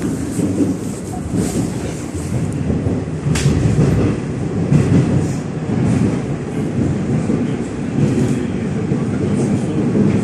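Moscow Metro 81-740/741 Rusich articulated train running through the tunnel between stations, heard from inside the car: a steady, loud rumble of wheels on rail, with one sharp click about three and a half seconds in.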